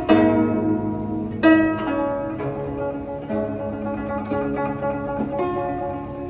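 Guzheng plucked in a slow melody, each note striking sharply and then ringing and fading, with a few stronger plucks spaced a second or more apart.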